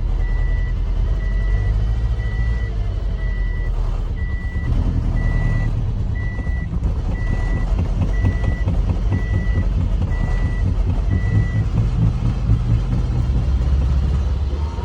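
Car engine running with a steady low rumble, under a high-pitched electronic warning beep repeating about once a second that stops about three-quarters of the way through.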